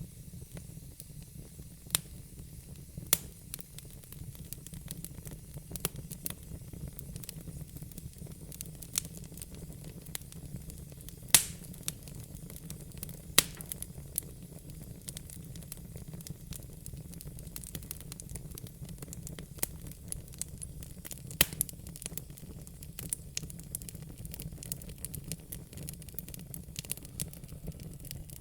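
Wood fire in a fire pit crackling: irregular sharp pops and snaps from the burning logs, a few much louder than the rest, over a steady low rumble.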